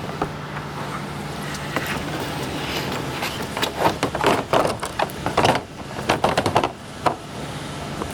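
A run of sharp metallic knocks and clinks, densest from about three to seven seconds in, over a steady low hum.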